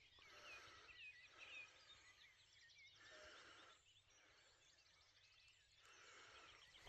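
Faint birdsong: small birds singing in short phrases of chirps and quick trills, with brief pauses between phrases.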